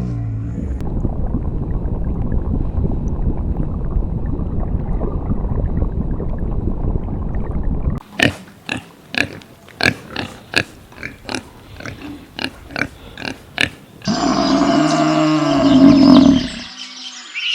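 A run of different animal calls: a low, dense rumbling for about eight seconds, then a series of short sharp calls roughly twice a second, then from about fourteen seconds a loud pitched call that rises and falls repeatedly.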